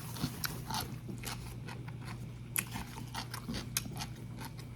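Close-miked chewing of instant noodles: a scatter of short, sharp wet mouth clicks and smacks over a steady low hum.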